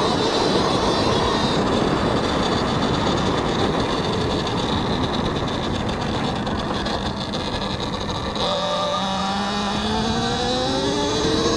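Talaria XXX electric dirt bike's motor whining under wind rush on a helmet mic. From about two-thirds of the way through, the whine climbs steadily in pitch as the bike speeds up.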